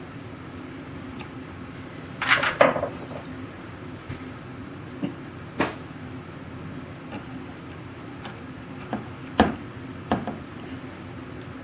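Small metal hardware clinking and knocking as screws are handled and fitted to a wooden machinist's tool chest: a quick cluster of clicks about two seconds in, then a few single clicks spread through the rest.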